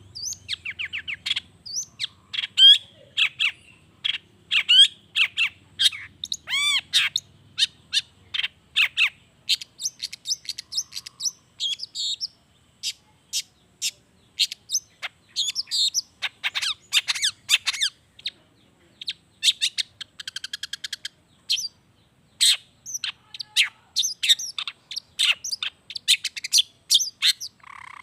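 Long-tailed shrike (cendet) singing a fast, varied song of short chattering notes and sweeping whistles, with brief pauses. It is the shrike's mimicking 'isian alam' song, packed with the calls of other birds.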